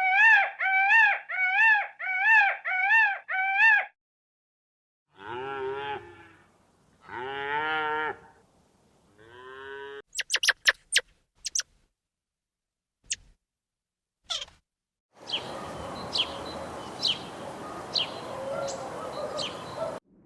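A run of animal calls: first a quick series of about eight high, repeated calls, then a cow mooing three times, followed by scattered clicks and a stretch of steady noise with short chirps about once a second.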